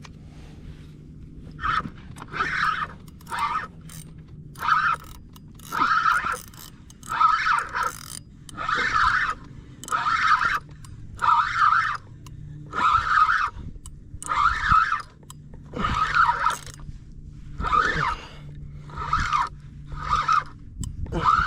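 Repeated scraping strokes, about one a second, each lasting about half a second, over a steady low hum.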